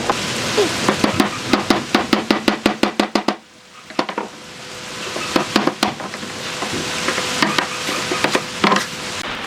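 Quick run of sharp taps, several a second, that stops abruptly about three seconds in. It is followed by a scratchy scraping that builds up, with scattered clicks.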